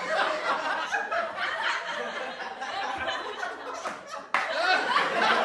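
A group of people laughing and chuckling together, mixed with chatter. A little over four seconds in, the sound cuts off abruptly and jumps to a louder stretch of laughter and talk.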